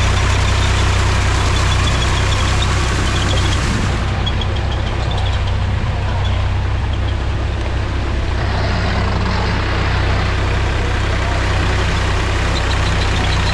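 Mahindra tractor's diesel engine running steadily, a low even drone.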